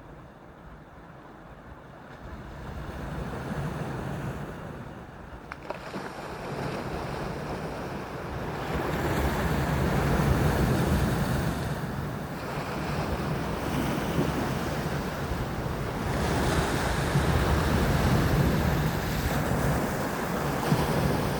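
Black Sea waves washing onto the shore, swelling and falling every few seconds, with wind rumbling on the microphone. Quiet for the first couple of seconds, then louder.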